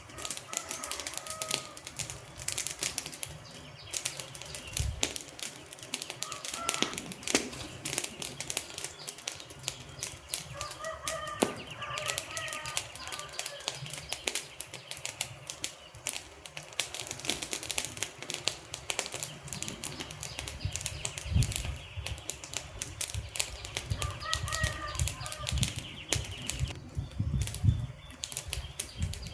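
Wood fire burning, crackling with a dense, irregular run of sharp snaps and pops, with some low rumbling in the second half.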